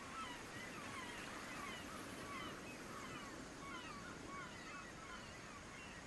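Faint bird calls: short, slurred notes falling in pitch, repeated about twice a second over a soft background hiss.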